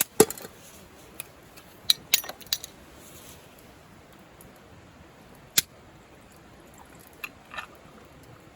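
Small hard objects being handled: a few sharp clinks and knocks at uneven intervals, the loudest just after the start and about five and a half seconds in.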